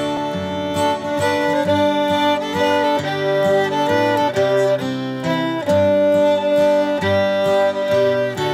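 Old-time fiddle tune with guitar accompaniment.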